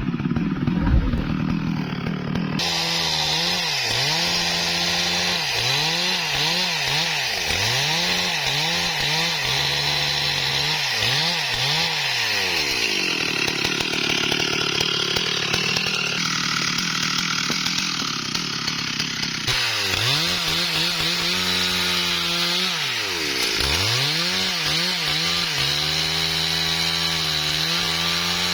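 STIHL MS382 two-stroke chainsaw cutting through a tree trunk, its engine pitch repeatedly dropping as the chain bogs in the wood and climbing back at full throttle. For about the first two and a half seconds there is only a lower rumble before the cutting sound starts.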